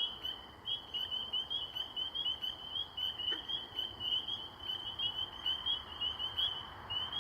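Chorus of spring peepers: many short, high, repeated peeps overlapping without a break. About three seconds in comes a single low, plucked twang of a green frog (banjo frog).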